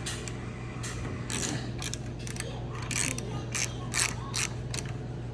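Ratchet wrench clicking in irregular strokes on a spark plug socket, loosening a snowblower's spark plug.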